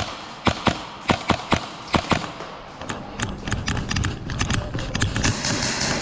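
Airsoft gunfire: a run of sharp, irregular single cracks in the first couple of seconds, then quicker, quieter clicks, with a steady hiss coming in near the end.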